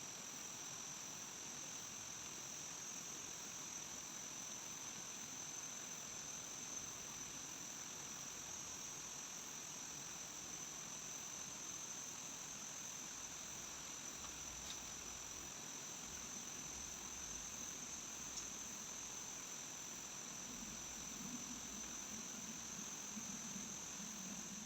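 Steady, high-pitched insect trilling, such as crickets, held at one pitch with no break, over a faint even hiss.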